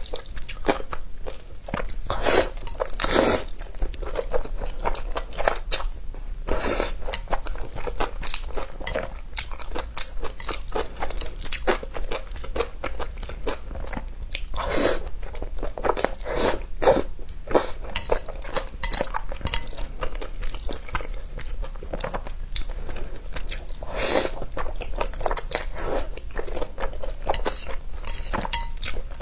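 Close-miked eating of noodles with green beans: steady wet chewing and crunching mouth sounds, with a handful of louder, sharper crunches.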